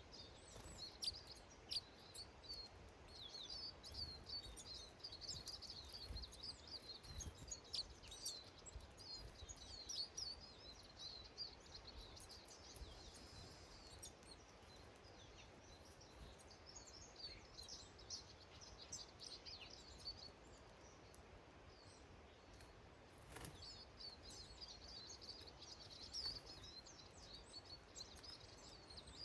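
Faint chirping and twittering of small garden birds in busy spells, with a lull about two-thirds of the way through.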